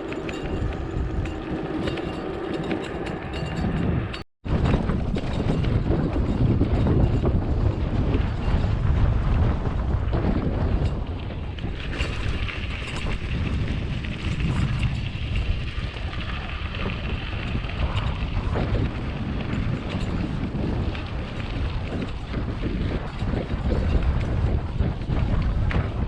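Strong wind buffeting the microphone: a heavy, gusting low rumble that cuts out for an instant about four seconds in.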